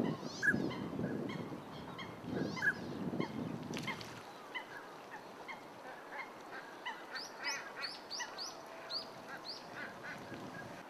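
A flock of common pochards calling, with many short, quick notes and a run of rising notes in the second half. A low rumble, like wind, sits under the first four seconds and then stops.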